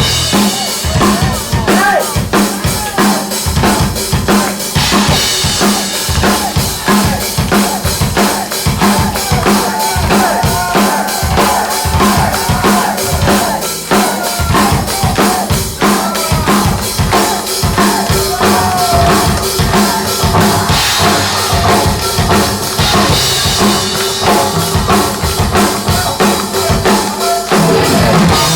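Hard-rock band playing live: an instrumental passage led by a drum kit keeping a fast, steady beat, with a wavering guitar line over it.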